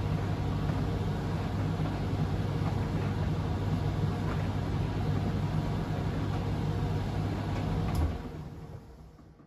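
Privileg Sensation 952 S top-loading washing machine running with a steady low hum. About eight seconds in the hum cuts off and the machine's noise dies away.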